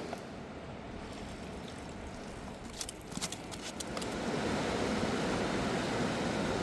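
Fast-flowing river water rushing steadily, growing louder about four seconds in, with a few faint clicks just before.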